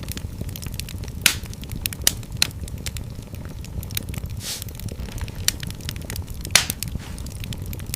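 Fireplace fire crackling: a steady low rumble of flames under a constant patter of small crackles, with a few sharp louder pops spread through.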